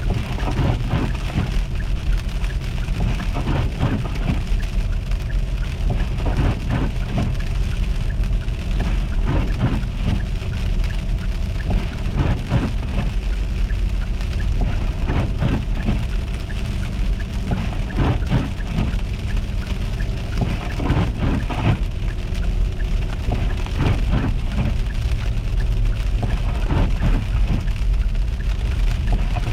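Car driving on an icy, slushy road: a steady low rumble of engine and tyres, with frequent irregular ticks and crackles.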